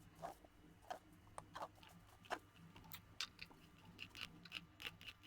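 Faint, irregular taps and crunches of a knife cutting through onion onto a chopping board, over a low steady hum.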